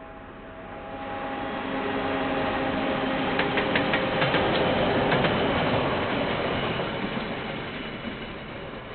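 KiwiRail diesel-hauled freight train passing. A steady diesel engine drone builds up, then there is a quick run of clicks from the wagon wheels on the rails around the middle, and the rumble slowly fades away.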